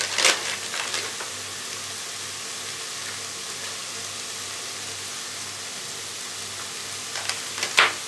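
Mushrooms and onions sizzling steadily as they fry in the bowl of an electric multicooker on its frying mode. A few light clicks come right at the start and again shortly before the end.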